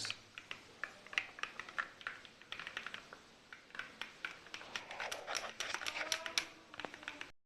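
A utensil clicking and scraping against the inside of a cup while stirring thick batter: a quick, irregular run of small clicks that stops abruptly near the end.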